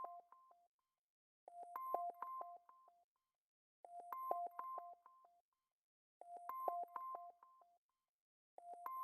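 Looped electronic beeping track: a phrase of quick beeps alternating between two pitches, with clicks, about a second and a half long, repeating every two and a half seconds with silence in between.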